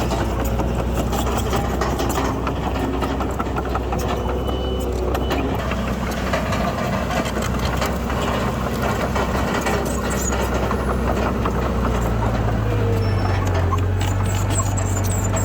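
Diesel engines of heavy earthmoving machinery running steadily, with a deeper engine note coming in about twelve seconds in.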